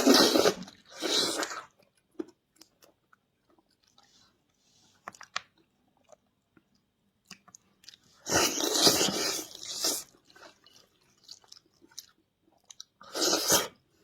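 Close-up chewing and crunching on spicy braised sheep's feet, in loud bursts at the start, about eight seconds in and near the end, with soft chewing clicks between them.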